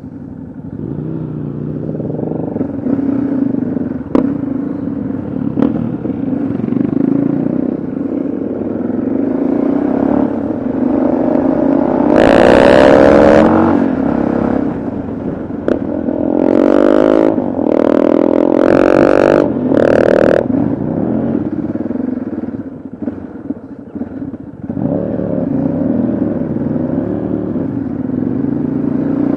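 Yamaha XT660Z Ténéré's single-cylinder engine running on the move. It pulls harder with rising revs from about twelve seconds in and again from about sixteen to twenty seconds, with wind rushing over the microphone at those moments.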